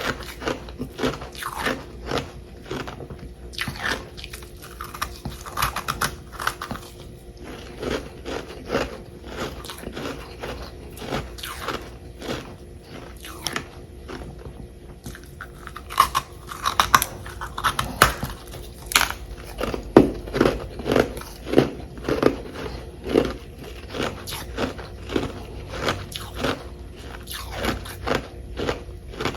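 Close-up crunching and chewing of chunks of humidifier-made freezer frost, with a steady run of crisp crunches about one or two a second. The bites get louder and come faster about halfway through.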